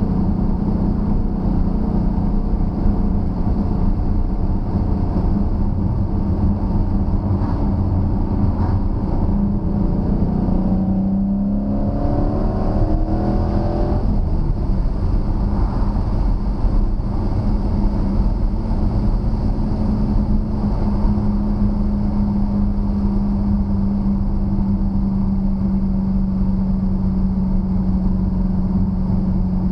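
2013 Dodge Challenger SRT8's 6.4-litre HEMI V8 running steadily under way, over road noise. A little before halfway it rises in pitch for about three seconds as it accelerates, then drops back abruptly and settles to a steady drone.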